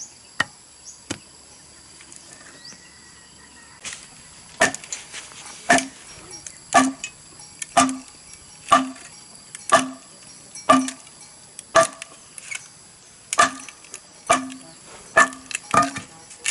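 Hand tool striking bamboo in a steady rhythm, about one blow a second, each with a short hollow ring. A few lighter taps come first, and the heavy blows begin about four seconds in.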